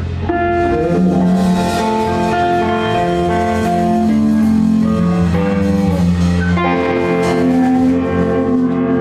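Guitar-led rock music from a band, with sustained chords and held notes over a bass line.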